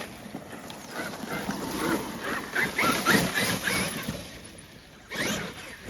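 Traxxas X-Maxx 8S electric RC monster truck driving over rough ground: uneven tire and drivetrain noise that swells and fades, with short high squeaks through the middle of it and a fresh burst of noise near the end.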